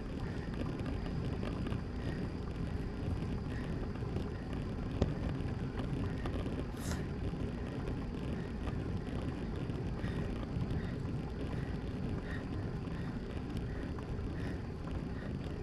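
Wind buffeting the microphone on a moving road bicycle, a steady low rumble of rushing air and road noise. A single sharp click comes about five seconds in, and a brief hiss just before seven seconds.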